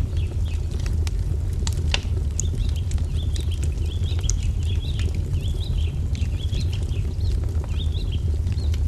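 Wood fire crackling, with scattered sharp pops, one louder about two seconds in, over a steady low rumble. A songbird twitters repeatedly in short wavering chirps through most of it.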